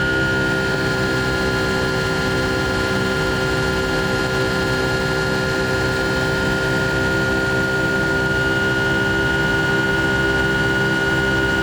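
Boeing 757-200's Rolls-Royce RB211 turbofan engines heard from inside the cabin by the wing: a steady engine roar with steady whining tones over it, the strongest a high whine.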